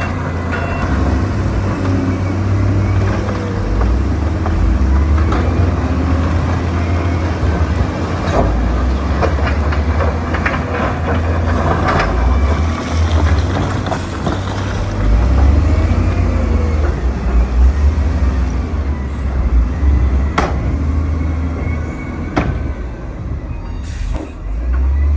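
Diesel engine of heavy earthmoving machinery running under load with a steady low rumble, over metallic clanking and rattling, and three sharp knocks in the last five seconds.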